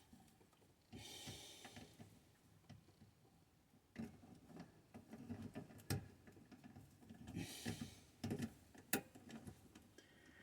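Faint hand work on small parts: scattered clicks and taps, with two short rustling hisses about a second in and again near the end.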